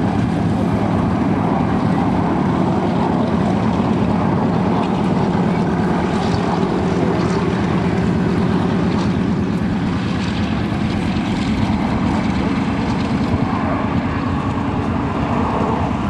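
English Electric Canberra's twin Rolls-Royce Avon turbojets heard in flight: loud, steady jet engine noise with a low hum, holding at much the same level throughout.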